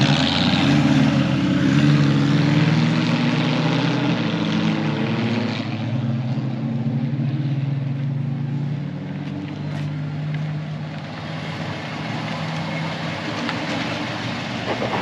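A car's engine as the car drives past, loudest in the first few seconds with its pitch climbing, then settling into a steadier, quieter engine sound as it moves off.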